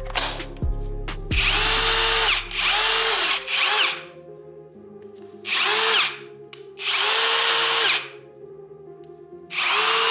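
Parkside Performance PDSSAP 20-Li A1 cordless impact driver run in six short bursts, three close together and then three spaced out. In each burst the motor winds up and back down under a harsh rattle. Background music with a bass beat sounds under the first few seconds.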